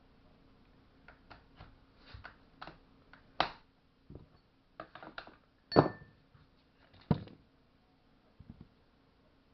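A string of clicks and knocks from metal tools and chainsaw parts being handled, loudest about three and a half, six and seven seconds in; the knock near six seconds leaves a short metallic ring.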